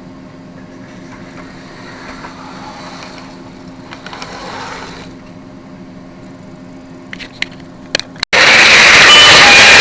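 Model railway train running on its track: a low steady motor hum with a soft swell of running noise midway and a few sharp clicks near the end. About eight seconds in, the sound cuts abruptly to a much louder, steady rushing engine-like noise.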